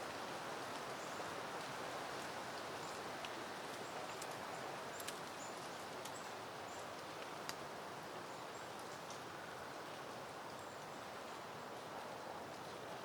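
Soft wind rustling steadily through peony plants, their leaves and blooms moving. A few faint high chirps and soft clicks come through over the rustle.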